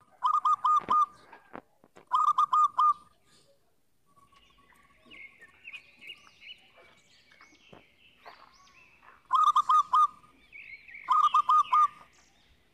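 Birds calling: four loud bursts of about five quick, evenly spaced notes, each burst under a second long, with fainter twittering chirps in between.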